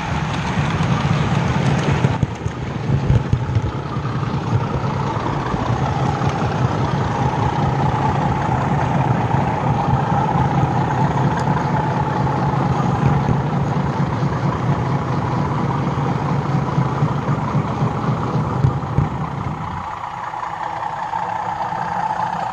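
Model OO gauge Class 31 diesel locomotive's Hornby TTS sound decoder playing a diesel engine running steadily, with a wavering engine tone; the low engine sound eases off near the end.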